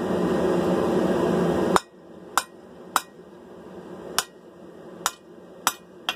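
A steady rushing noise that stops abruptly just under two seconds in, then a blacksmith's hand hammer striking the sword blade on the anvil: about seven sharp, unevenly spaced blows, some with a brief metallic ring.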